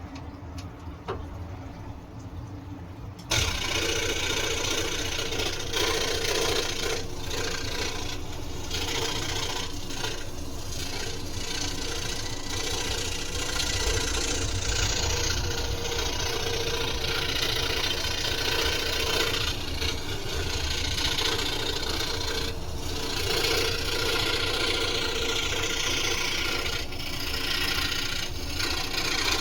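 Scroll saw running and cutting through wood: the blade's rapid stroking with the motor's steady drone. It starts abruptly about three seconds in, after a quieter low hum.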